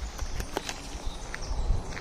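A few sharp, irregular knocks or taps, like footsteps on hard boards, over a low rumble of wind on the microphone, with faint bird chirps in the background.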